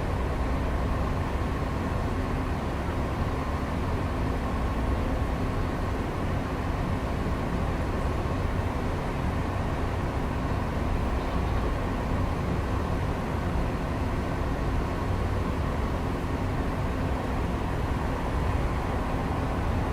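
Steady city traffic rumble heard through an open window, even and unbroken, with a faint steady hum above it.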